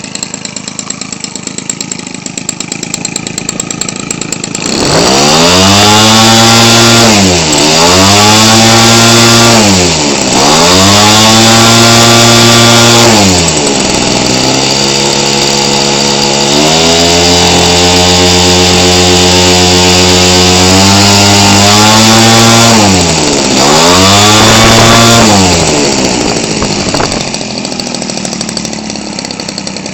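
Weed Eater Featherlite 21 cc two-stroke engine turning a propeller, converted for an RC airplane. It idles, then is revved about four times to high speed and eased back. It holds a steady part-throttle for several seconds, then revs twice more and settles back to idle near the end.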